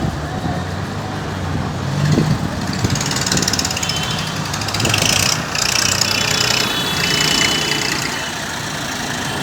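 Tractor diesel engines running steadily, with a high hissing noise over them from about three seconds in until near the end.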